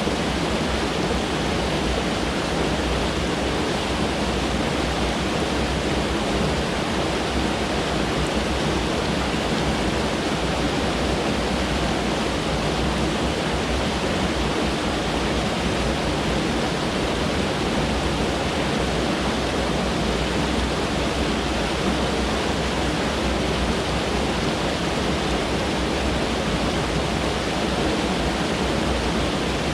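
Mountain stream rushing steadily, a loud, even wash of water noise that does not change.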